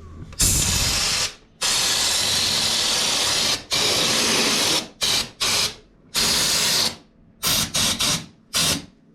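Pneumatic spray gun applying anticorrosion underbody coating, its trigger pulled in bursts of loud hiss. There are a few long bursts of one to two seconds, then a string of short spurts.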